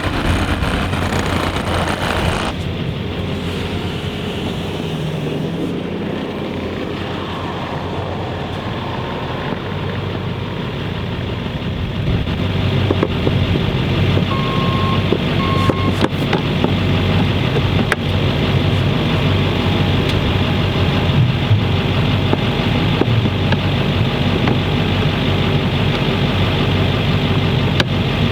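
Snowplow truck's engine running steadily while plowing, growing louder about twelve seconds in, with two short beeps in the middle.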